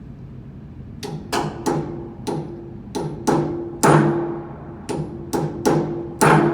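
Hammer blows on metal: about a dozen sharp, irregular strikes beginning a second in, each leaving a short metallic ring. This is the knocking used to drive a bearing along a blower-wheel shaft during a bearing replacement.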